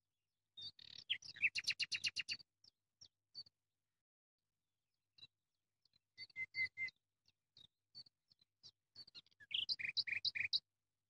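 Small bird chirping in quick runs of short high notes: one run about a second in, a shorter one around six seconds, and another near the end, with scattered single chirps between.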